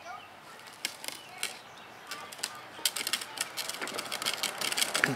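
A toddler's small bike rattling and clicking as it rolls along. The clicks start sparse and grow faster and louder in the second half.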